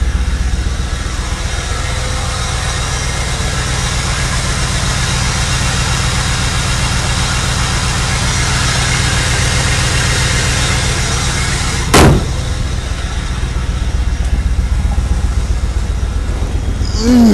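1994 Camaro Z28's LT1 V8 idling steadily while blowing heavy white smoke. A single sharp knock comes about twelve seconds in.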